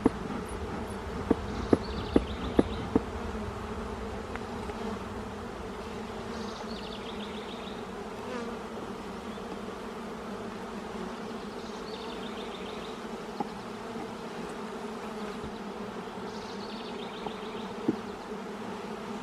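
Honey bees buzzing steadily around an open hive, with a few sharp clicks in the first three seconds and another near the end. A faint high trill repeats about every five seconds.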